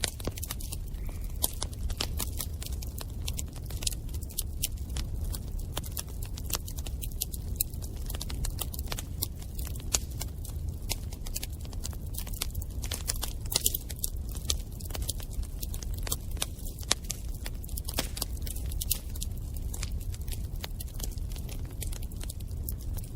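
Bonfire crackling: burning wood snaps and pops in many quick, irregular clicks over a steady low rumble of the flames.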